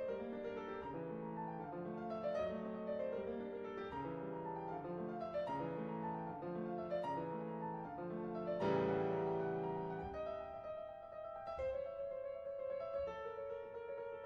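Background piano music: a steady run of notes, with a louder, fuller chord a little past halfway.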